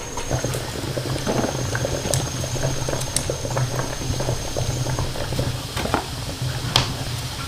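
Water boiling hard in a pot: a steady bubbling rumble with scattered clicks and taps, the sharpest one near the end.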